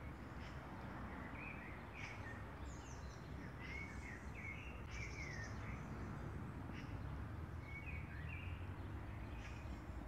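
Small birds chirping in short notes that glide up and down, scattered throughout, over a steady low outdoor rumble.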